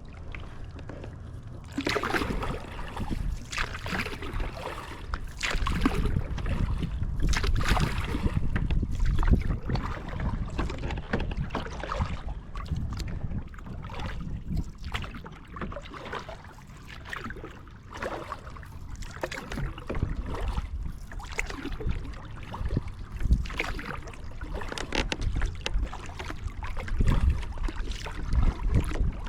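Kayak paddle strokes: the blades dip and splash in the water over and over at a steady paddling pace, over a low rumble of wind on the microphone.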